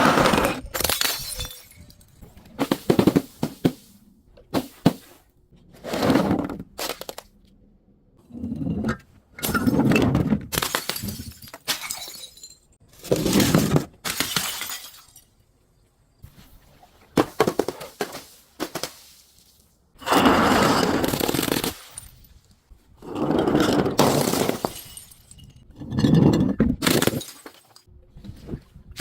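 Glass bottles and other crunchy objects being crushed: a dozen or so crunching, shattering bursts a few seconds apart, some brief and some lasting a second or two.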